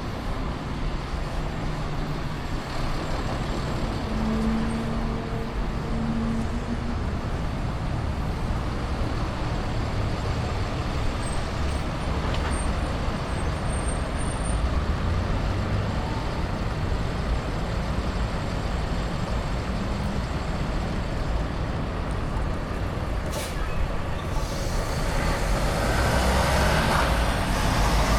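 Downtown street traffic: cars, buses and trucks running past with a steady rumble, getting louder near the end as a vehicle passes close.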